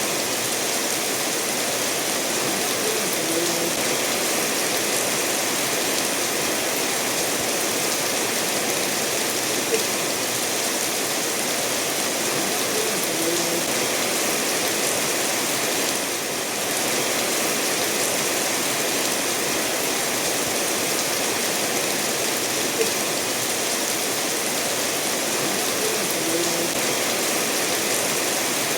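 Steady rainfall mixed with a stream running over stones, an even hiss of water without a break, with a few faint short drips now and then.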